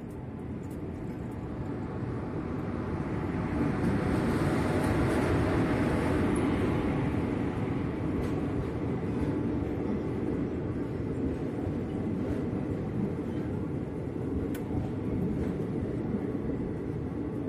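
Passenger express train pulling into the station platform. A rumble builds over the first few seconds and is loudest around five seconds in, then carries on steadily as the coaches roll past.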